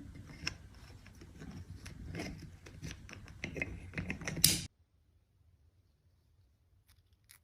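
Rapid, irregular clicking and tapping of small hard objects being handled, cutting off suddenly about two-thirds of the way in.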